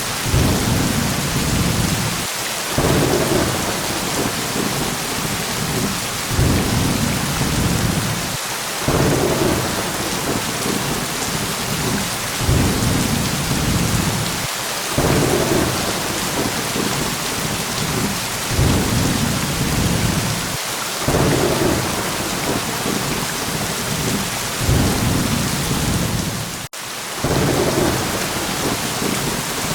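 Steady rain with low rumbles of thunder swelling every few seconds, and a very brief drop-out in the sound near the end.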